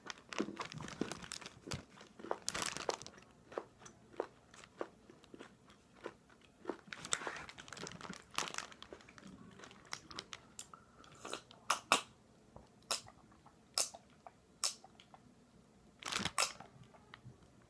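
Close-up chewing and crunching of candy-shelled chocolate eggs, the hard sugar shells cracking between the teeth in irregular crunches, with a few louder crunches in the second half.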